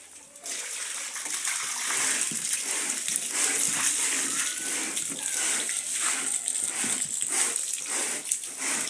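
Water splashing and sloshing in irregular bursts as a carpet is rinsed by hand.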